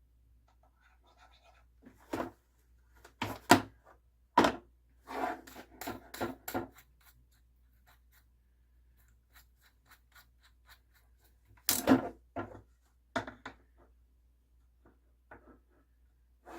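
Hard objects being handled on a workbench: a string of sharp clicks and knocks, with a quick clattering run about five seconds in and another group of knocks about twelve seconds in, over a faint low hum.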